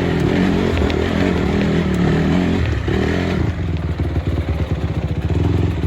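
Motorcycle engine running; about three and a half seconds in it settles into a steadier, evenly pulsing beat.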